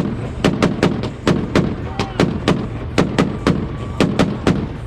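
Volkswagen's engine held on a two-step launch-control rev limiter, its exhaust popping and banging sharply about three to four times a second over a steady engine drone. The rhythmic bangs are the limiter cutting ignition and unburnt fuel igniting in the exhaust.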